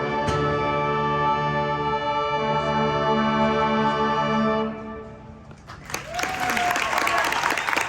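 A wind ensemble of brass and woodwinds holding a loud sustained closing chord that cuts off just under five seconds in. About a second later an audience breaks into applause.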